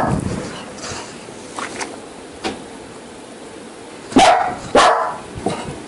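A dog barking: one bark right at the start, then two loud barks close together near the end.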